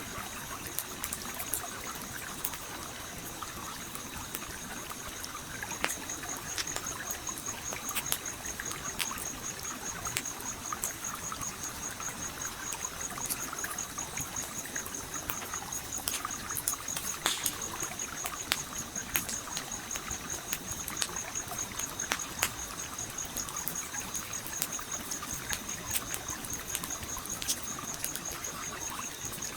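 Gently flowing stream with a campfire crackling over it, sharp irregular pops and snaps against the steady trickle of water.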